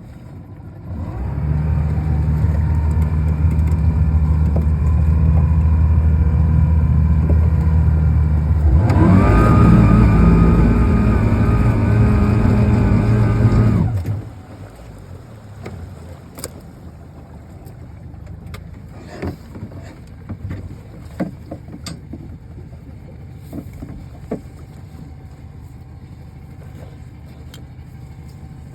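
An engine starts and runs steadily, rises in pitch and loudness about nine seconds in, then shuts off abruptly about fourteen seconds in; afterwards only scattered light knocks are heard.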